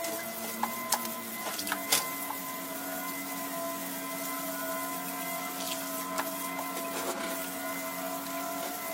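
A machine running steadily, with scattered sharp clicks and knocks in the first couple of seconds.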